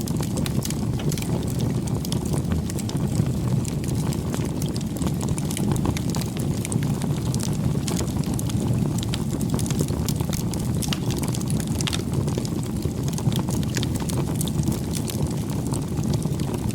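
Campfire burning: a steady low rumble of flames with frequent sharp crackles and pops of burning wood.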